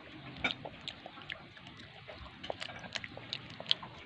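A child eating french fries close to the microphone: chewing with many small irregular clicks and wet mouth smacks.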